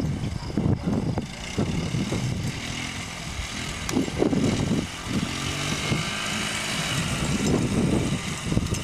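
Honda Z50R mini dirt bike's small four-stroke single-cylinder engine, ridden on and off the throttle, its pitch rising and falling as it revs up and eases back.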